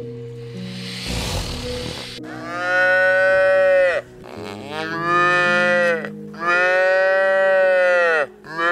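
A calf mooing: three long, drawn-out calls, each dropping in pitch at its end, over soft background music. About a second in, before the calls, there is a brief rush of noise.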